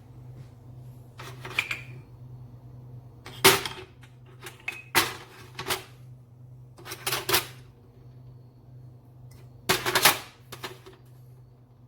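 Clicks and knocks of hard objects being handled, in about seven short clusters a second or two apart, the loudest about three and a half seconds in and near ten seconds, over a steady low hum.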